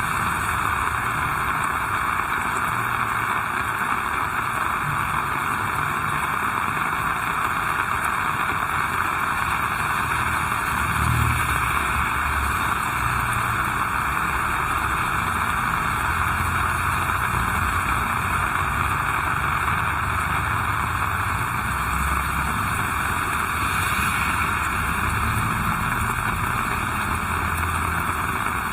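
Heavy rain falling, a steady dense hiss. A low rumble comes and goes beneath it, most clearly about a third of the way in and again past the middle.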